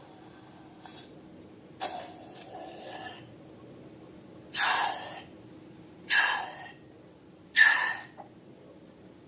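Short hissing bursts of air rushing out of a balloon, each with a faint whistle, coming four times at about a second and a half apart.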